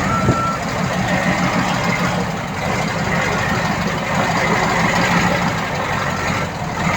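Heavy diesel earthmoving machine running steadily under load while its reversing alarm beeps, one beep ending about half a second in and a fainter one near the end.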